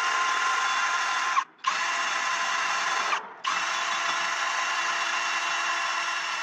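Drill spinning a brush attachment against the metal to clean it, running steadily. It stops briefly twice, about a second and a half and about three seconds in.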